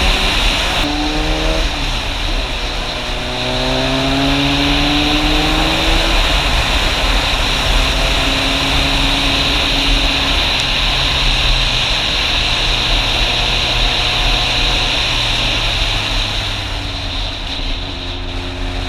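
Motorcycle engine accelerating through the gears, its pitch rising in steps, then running at a steady cruise, over a constant rush of riding noise.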